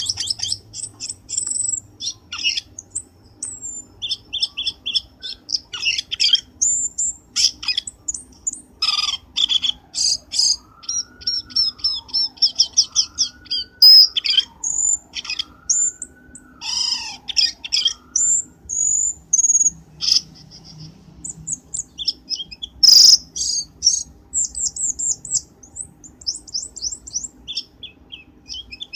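Cucak keling birdsong played as a lure call: a continuous run of rapid, varied high chirps and trills, with a lower wavering whistle weaving through the middle and one sharp, louder note about twenty-three seconds in.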